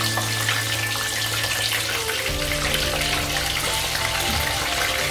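Dover sole frying in hot oil in a pan, a steady crackling sizzle, with background music over it.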